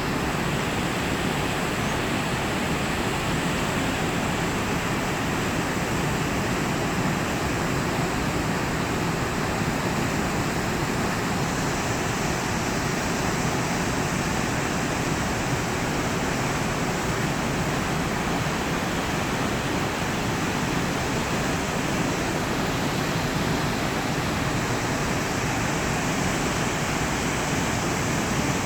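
Sengataki waterfall's water falling and rushing in a steady, unbroken roar of noise.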